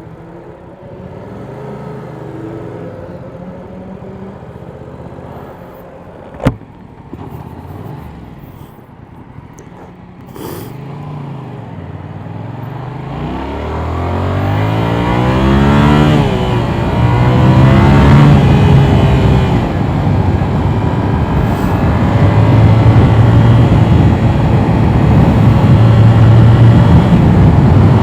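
Yamaha R7's parallel-twin engine, running low and quiet at first, with one sharp click about six seconds in. About thirteen seconds in it pulls away, revving up in rising sweeps through the gears, then runs loud and steady with wind rush building.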